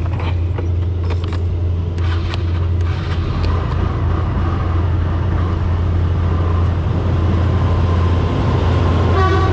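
Honda motor scooter pulling away and riding at speed: a steady low rumble that grows slightly louder, with a few light clicks early on and a brief higher tone near the end.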